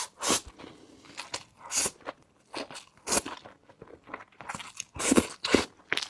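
Close-miked chewing and crunching of stir-fried shredded pancake, irregular wet crunches and mouth sounds a few to the second.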